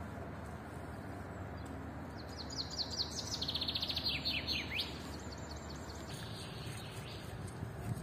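A songbird singing one song of about two and a half seconds: a fast run of high notes falling in pitch, then a trill, ending in a few sweeping notes that drop lower.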